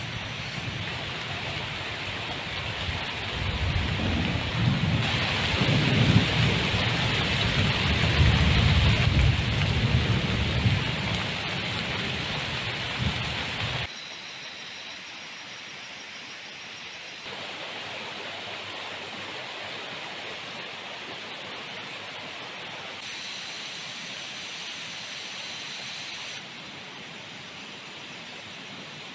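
Heavy jungle rain pouring down while thunder rumbles and rolls. About halfway through it changes suddenly to a quieter, steady rain hiss without the rumble.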